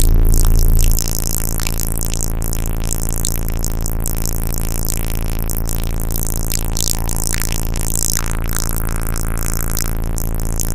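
Bass-heavy electronic music played loud through a car audio system with four Resilient Sounds 18-inch subwoofers; the deep bass dominates and steps down slightly in level about a second in.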